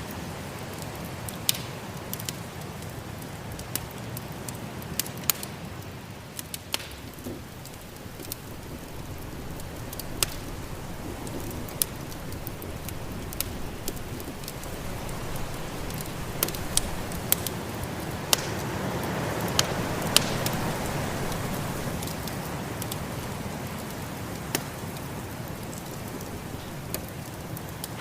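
Wood fire crackling, with scattered sharp pops, over a steady low rush of snowstorm wind that swells about two-thirds of the way through.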